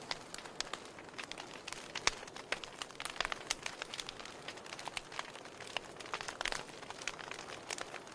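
Wood campfire crackling: irregular sharp pops and snaps over a soft steady hiss of burning.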